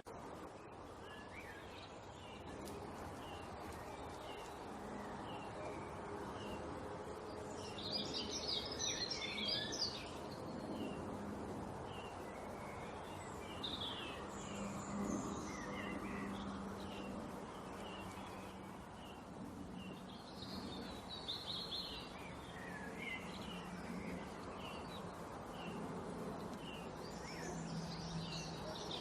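Small birds chirping: many short, repeated chirps throughout, with louder bursts of rapid twittering about 8, 20 and 27 seconds in, over a steady low background hum.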